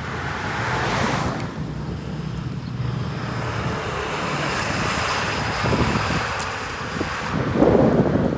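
Road traffic: cars passing with tyre and road noise, one swelling past about a second in and another through the middle, with wind rumbling on the microphone near the end.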